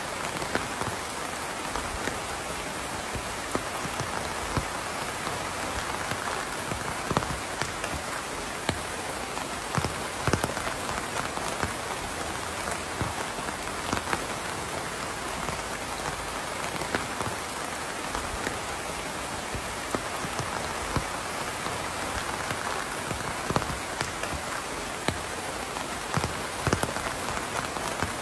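Steady rain falling, an even hiss with individual drops ticking sharply here and there throughout.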